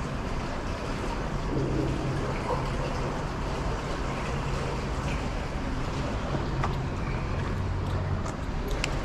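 Steady rushing outdoor noise with a low hum under it, and a couple of light clicks near the end.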